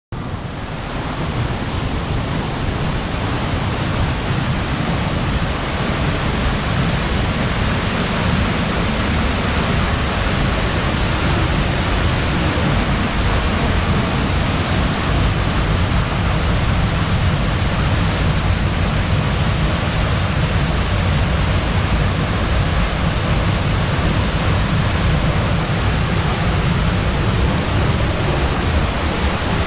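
Steindalsfossen waterfall's steady, loud rush of falling water, heard close up, with a deep rumble beneath it.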